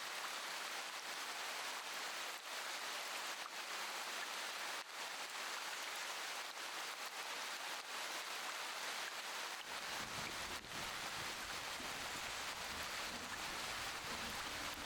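Steady rain falling, an even hiss with scattered individual drop ticks. About ten seconds in, a low rumble joins it.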